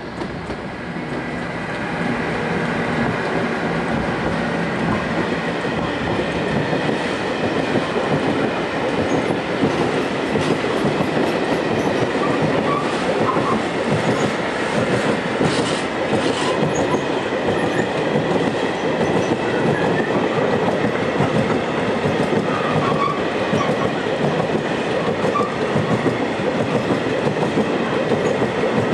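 Freight train of flat wagons passing close behind a DB Cargo Siemens Vectron electric locomotive: a steady rumble with the clickety-clack of wheels over rail joints. It grows louder over the first couple of seconds as the locomotive comes alongside, then holds steady as the wagons roll by.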